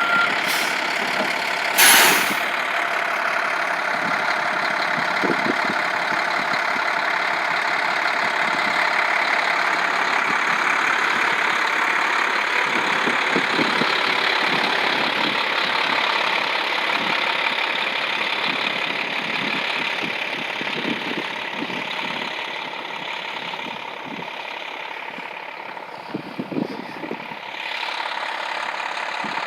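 A vehicle engine running steadily, with a sharp knock about two seconds in.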